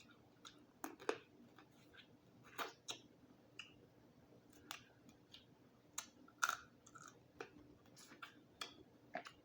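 Close-miked eating of a boiled Dungeness crab: quiet chewing broken by irregular sharp clicks and cracks as the shell is handled and bitten, the loudest a little past the middle.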